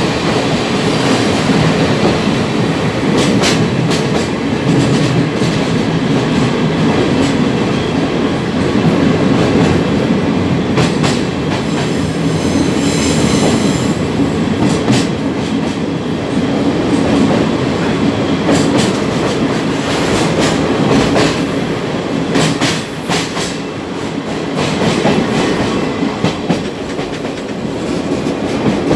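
Sagano Trolley Train running along the track: a steady rumble of wheels on rail, with repeated sharp clicks as the wheels pass over rail joints, and a brief high-pitched sound about halfway through.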